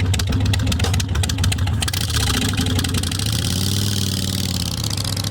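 An engine running, its pitch rising and falling once a little past the middle, like a brief rev.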